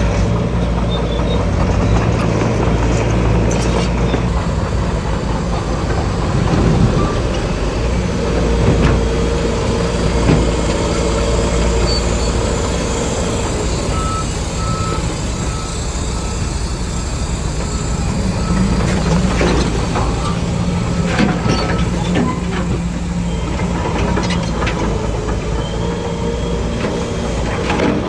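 Diesel engines of heavy earthmoving machinery, a bulldozer and a dump truck, running steadily. A reversing alarm beeps repeatedly about halfway through.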